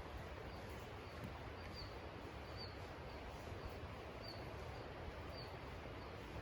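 Steady outdoor rushing noise with a short, high bird call repeated about once a second.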